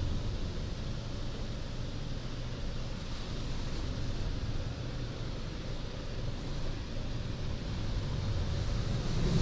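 Low, steady rumble of touchless car-wash machinery with a faint hiss, swelling slightly near the end. It follows a high-pressure spray pass that cuts off just as the rumble begins.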